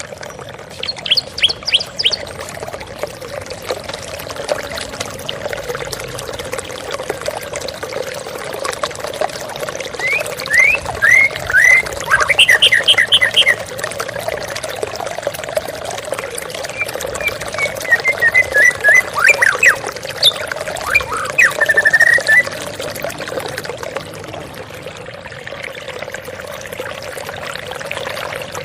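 Steady rush of falling water from a waterfall, with a white-rumped shama (murai batu) singing three bursts of quick whistled notes: one near the start, one about a third of the way through, and a longer one past the middle.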